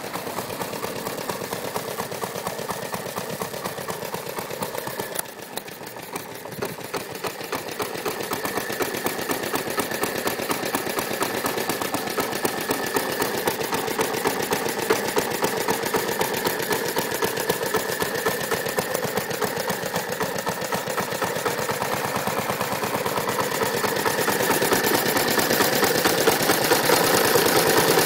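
Briggs & Stratton FI single-cylinder engine on a 1929 Moto-Mower reel mower running with a rapid, even firing beat. It drops briefly about five seconds in, then builds and is loudest near the end.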